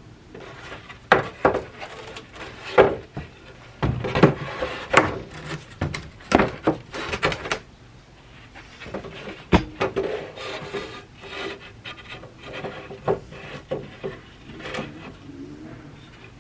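Wooden pallet boards being handled and fitted together: irregular clacks and knocks of wood on wood with some scraping, busiest in the first half and sparser toward the end.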